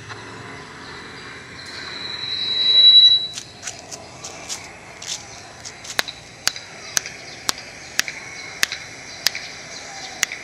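Finger snapping, a run of sharp snaps about two a second, picked up by a wireless FM bug microphone and played through the receiving radio. Before the snaps a high whistling tone swells up and is the loudest sound, cutting off about three seconds in.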